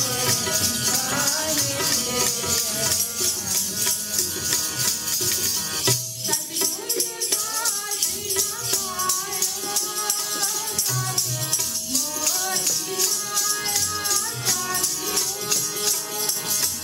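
Sikh kirtan music: voices singing over pitched instruments, with a fast, steady jingling rattle beat throughout.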